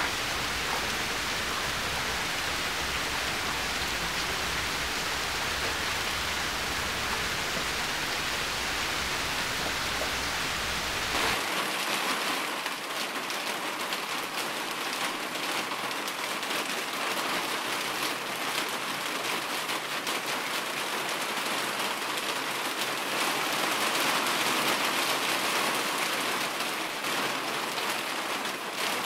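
Steady rainfall, a dense hiss of drops. About eleven seconds in the sound changes abruptly: the low rumble drops away and the patter of individual drops stands out more.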